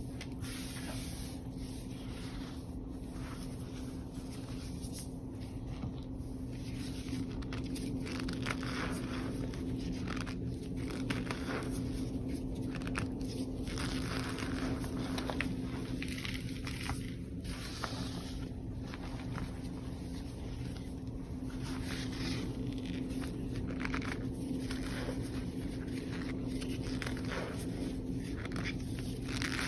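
Reformed powder blocks of gym chalk and cornstarch crumbled and crushed by hand: irregular crunching, scraping and crumbling that comes and goes, over a steady low hum.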